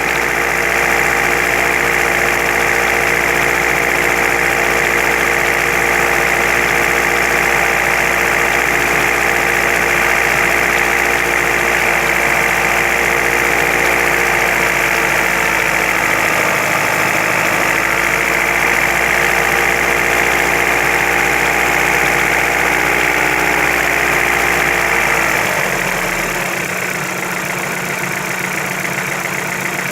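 Engine idling steadily with a knock whose cause is unknown. About 25 seconds in the low hum drops away and the sound becomes a little quieter.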